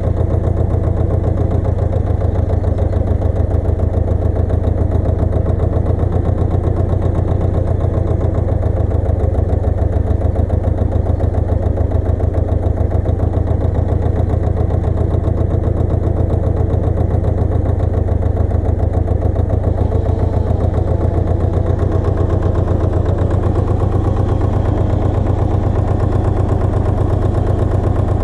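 Pasquali 980 EX tractor's engine running steadily with a fast, even pulse and a strong low hum.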